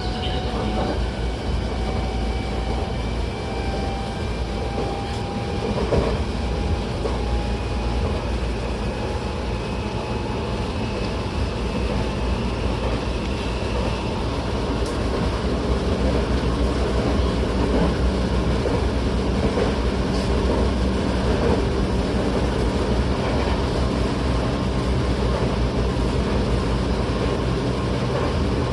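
Tokyo Metro 08 series train's Mitsubishi IGBT-VVVF inverter and traction motors whining with a slowly rising pitch as the train picks up speed, over steady wheel-on-rail rumble heard inside the car. The whine fades about halfway through, leaving the running noise a little louder and steady.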